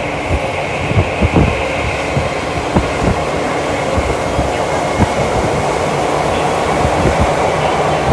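Tokyu Toyoko Line train running at speed, heard from inside the car: a steady rumble of wheels and motors, with irregular knocks from the wheels over the track.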